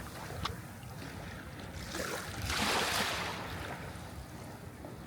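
Sea waves washing on the shore: one wave swells in and breaks about halfway through, then fades back to a softer wash.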